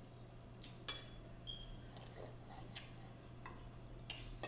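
Cutlery clinking against dishes: a few light scattered taps, the sharpest one about a second in with a short ring, and another near the end, over a steady low hum.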